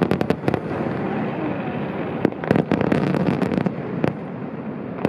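Aerial firework shells bursting in rapid clusters of sharp bangs and crackles: a dense run right at the start, a single bang a little after two seconds, then another dense run from about two and a half to three and a half seconds in, over a steady noisy background.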